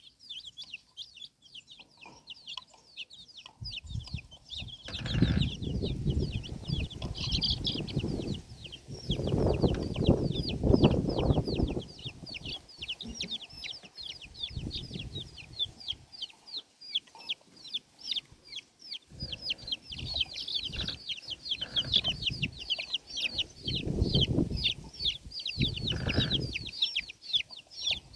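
Chicks peeping rapidly and without a break, many short high downward peeps a second. Stretches of low rustling noise come and go over it, loudest about ten seconds in.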